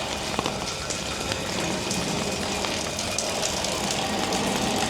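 Steady rain falling, with a dense pattering of small drop clicks over a constant wash of noise.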